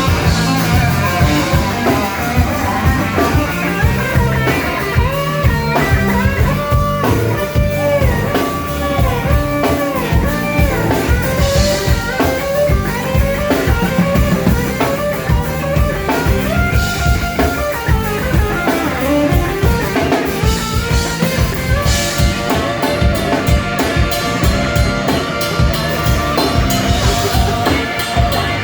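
Live rock-blues band playing an instrumental passage: a lead guitar line with bent notes over drum kit and bass.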